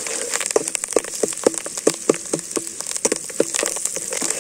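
Sliced onions and curry leaves sizzling in hot oil in an aluminium pot, with a steady high hiss. A metal spoon stirring them scrapes and knocks against the pot, making a run of short ringing taps, several a second.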